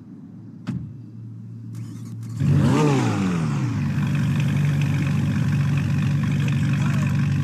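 Ferrari V8 engine starting: a click, a short whir, then the engine catches about two and a half seconds in with a quick rev flare that rises and falls, and settles into a steady idle.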